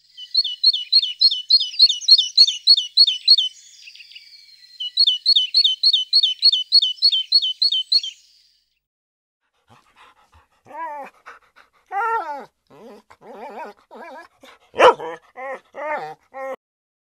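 Animal calls: a fast, even run of high chirps, about four a second, with a short break partway through. After a pause come shorter, lower whining yelps that slide down in pitch.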